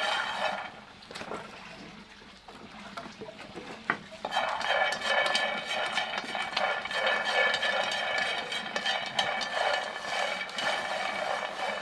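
Peanuts dry-roasting in a pan, stirred with a utensil: a dense, steady rattling and scraping with many small clicks, starting after a sharp click about four seconds in, following a quieter stretch.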